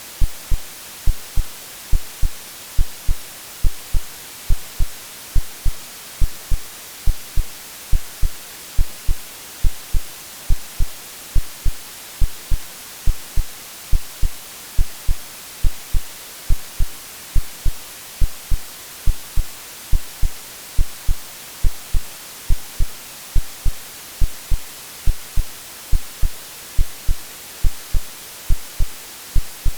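Synthetic heartbeat over a steady white-noise hiss: soft, low double thumps (lub-dub) repeat evenly, a little over one beat a second, imitating the mother's heartbeat heard in the womb.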